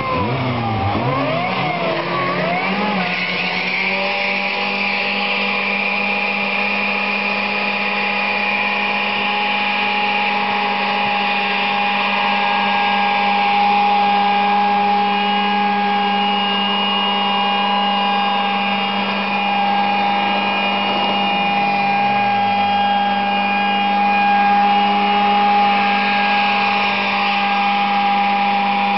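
Car engine revved hard over the first few seconds, then held at high, steady revs while the front wheel spins in a smoky burnout.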